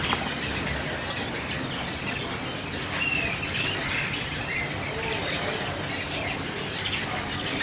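A shop full of caged birds, canaries among them, chirping and calling over one another, with short arched chirps coming every fraction of a second.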